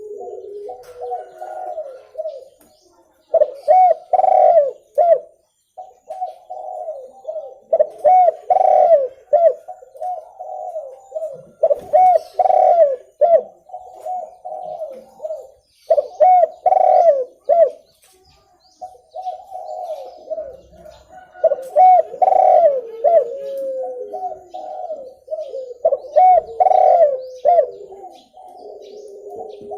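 Spotted dove cooing: repeated phrases, with a loud phrase about every four to five seconds and softer cooing in between, the kind of call used to lure wild doves.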